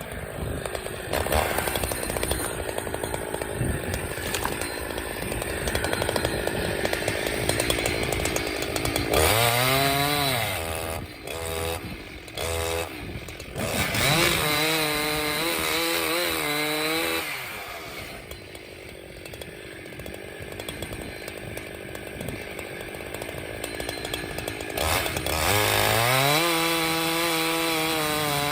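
Chainsaw bucking a downed maple into rounds: the saw runs under load cutting through the wood. It revs up freely between cuts about nine seconds in, with a few short throttle blips after, and rises again near the end.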